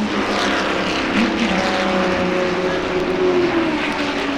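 A pack of 1964 sports-racing cars passing at speed one after another, several engine notes overlapping, with the pitch of one car falling as it goes by a little after three seconds in.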